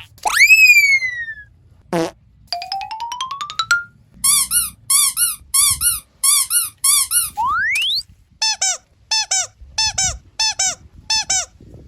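A run of cartoon sound effects: a falling whistle, a rising glide, a series of short squeaky chirps, a quick rising whistle, then more squeaky chirps.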